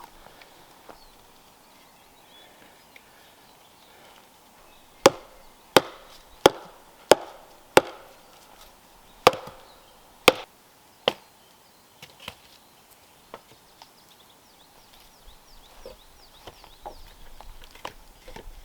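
Wood being chopped: a run of about eight sharp blows starting about five seconds in, roughly one every 0.7 seconds with a short pause midway, followed by a few lighter knocks.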